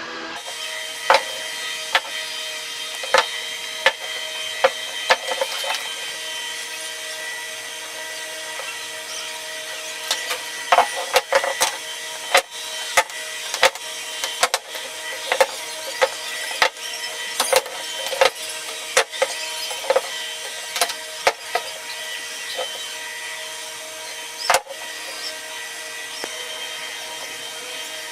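Woodworking in a shop: a steady motor hum runs throughout, under many irregular sharp knocks and taps on wood. The knocks come thickest in the middle and thin out near the end.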